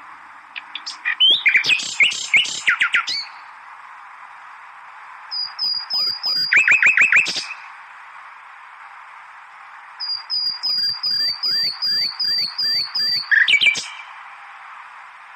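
A songbird singing three phrases of repeated whistled notes and quick trills, with short pauses between them, over a steady background hiss.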